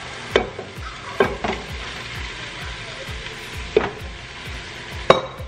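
Italian sausage frying with onions and garlic in hot oil in a pot: a steady sizzle, broken by about five sharp knocks at uneven times.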